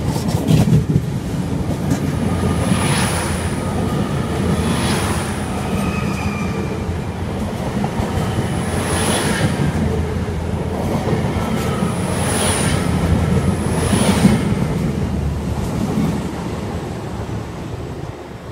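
LNER Azuma high-speed train passing at speed: a steady heavy rumble of wheels on rail, with clacks at intervals as the bogies run over the track and brief faint high squeals. The sound falls away over the last few seconds as the train recedes.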